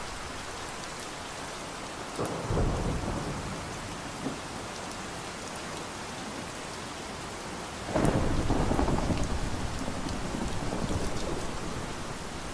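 Steady rain falling, with two rolls of thunder: a short one about two seconds in and a louder, longer one about eight seconds in that slowly fades.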